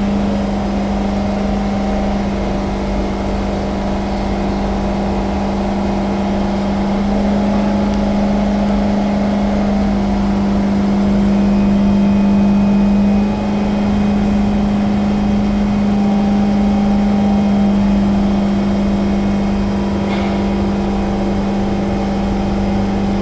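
Inside a C151 metro train car: a steady electrical hum with several fainter steady whining tones over a low rumble, dipping briefly about halfway through.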